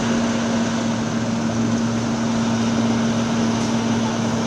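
Engine of road-repair machinery running steadily at a constant speed, a steady low hum over an even rumbling noise.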